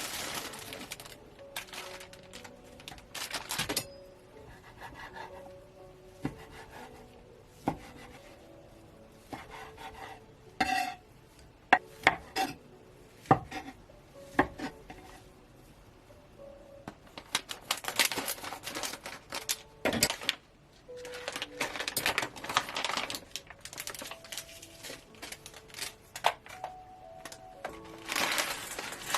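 Kitchen preparation sounds: dishes, utensils and cookware clinking, knocking and scraping at irregular moments, with busier stretches past the middle, over soft background music.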